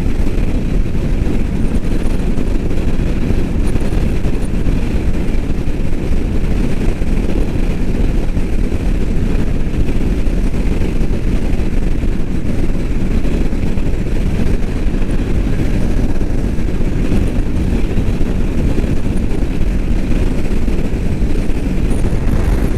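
Steady wind rush and engine drone of a Royal Enfield Meteor 350's single-cylinder engine cruising at highway speed, loud and unchanging.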